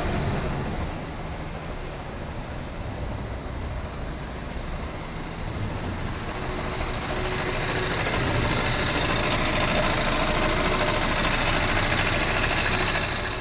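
Jetour X90's engine idling, heard from underneath the car, getting louder about eight seconds in as the microphone nears the joint between engine and dual-clutch transmission. This is where the mechanic hears the noise he suspects comes from the clutches or flywheel.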